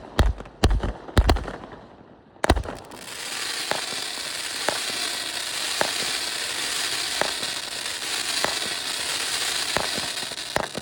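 A firework cake's fuse hissing steadily once lit, with faint pops about once a second, just before the cake begins firing. Earlier there are a few dull thumps and then one sharp crack.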